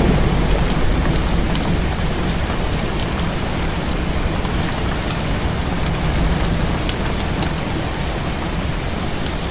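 Heavy rain falling steadily, with the last of a low thunder rumble dying away about a second in.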